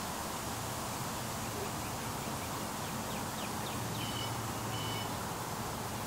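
A small bird calls: a run of quick, short downward chirps, about five a second, then two brief steady high notes. Under it runs a steady outdoor hiss.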